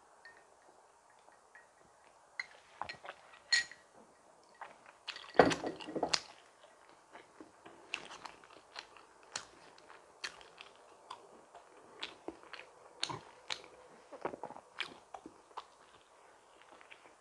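Close-miked chewing and biting of donuts, with soft wet mouth clicks scattered throughout. A louder, denser crunchy burst comes about five to six seconds in.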